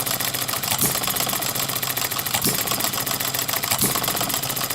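Breisch "little brother" hopper-cooled hit-and-miss engine running on its buzz-coil ignition. It gives a fast, steady ticking with a heavier beat about every one and a half seconds, hitting and missing under governor springs that were set by guesswork.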